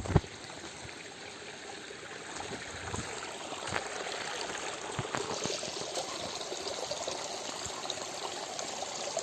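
Mountain stream running over rocks, a steady rush of water that grows a little louder after about two seconds, with a few faint knocks over it.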